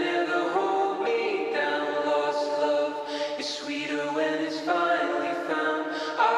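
Background music: layered voices singing held notes, choir-like and without words that can be made out.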